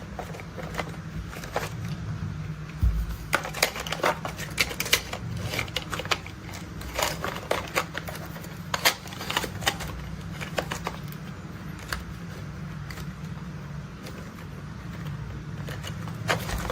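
Hard plastic toy construction vehicles being handled, giving irregular clicks and clacks of plastic parts, over a low steady hum.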